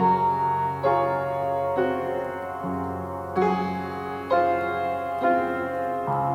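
Slow piano music, a new note or chord struck about once a second over held bass notes.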